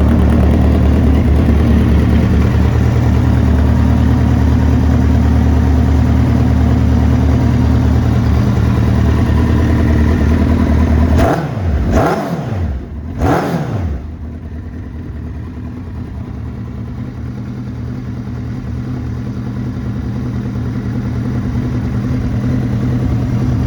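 2005 Kawasaki Z1000's inline-four engine idling through its cut-down standard exhausts, which are probably decatted. About halfway through it is blipped twice with quick revs that rise and fall, then settles back to idle.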